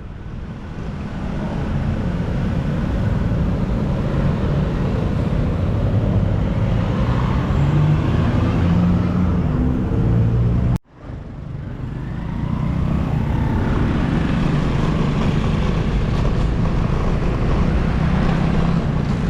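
Busy road traffic heard from the roadside: motor vehicle engines running and passing over steady road noise. About eleven seconds in the sound cuts out abruptly, then fades back in.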